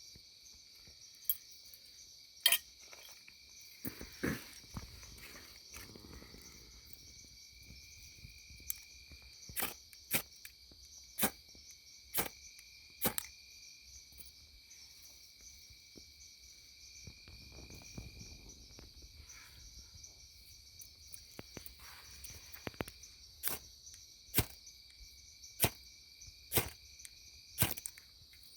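Repeated short, sharp scrapes of a steel striker down a ferrocerium rod (fire steel), roughly one a second in two runs, as someone tries to throw sparks into tinder. Crickets or other insects chirp steadily underneath.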